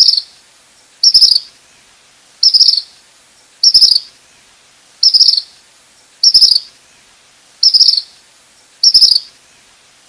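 Tropical kingbird calling: short, high twittering chirps of a few quick stuttered notes, repeated about every second and a quarter, about eight times.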